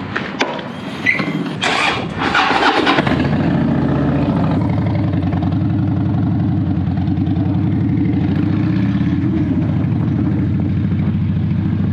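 Clicks and handling noise, then a Harley-Davidson Dyna's V-twin engine is started about three seconds in and settles into a steady idle with a fast, even pulse.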